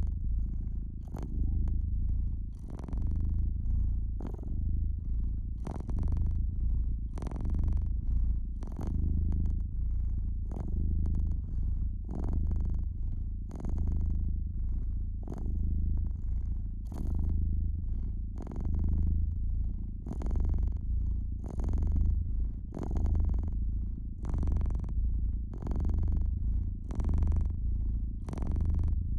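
Domestic cat purring steadily, the low rumble swelling and fading about every two seconds with its breathing, over irregular crackles and pops of a wood fire.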